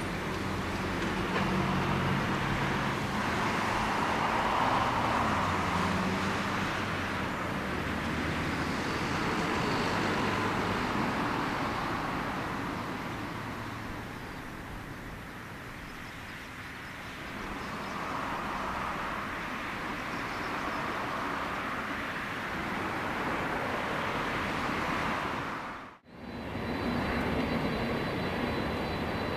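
Jet engine noise from an All Nippon Airways Boeing 767-300ER, a broad steady rumble and whoosh that swells and fades twice. It cuts out abruptly near the end, then resumes.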